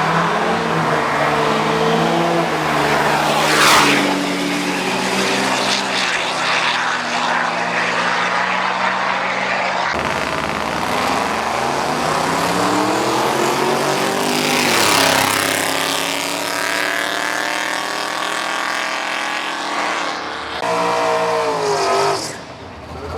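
Drag-racing vehicle engines at full power, their pitch climbing as they accelerate away. The sound changes abruptly about ten seconds in, and another engine rises in pitch after it.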